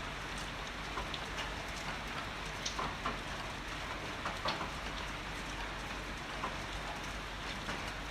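Heavy rain falling steadily, with scattered sharp ticks of individual drops hitting a nearby surface.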